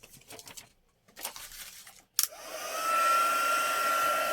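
Heat embossing tool switched on with a click about halfway through, its fan spinning up in a rising whine and then running steadily with a constant high whine and blowing air, as used to melt embossing powder. Before it starts, a few light handling taps.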